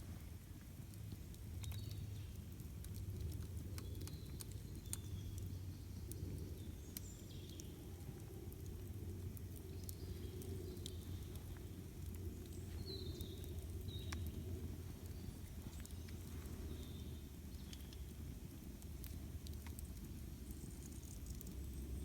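Campfire burning, with irregular sharp crackles and pops over a low steady rumble. Short high bird chirps come every second or two.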